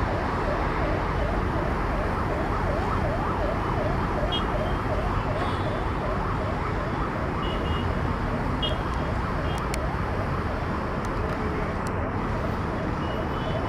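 Emergency vehicle siren in a fast yelping up-and-down wail, a few cycles a second, that fades out about halfway through, over steady road traffic noise.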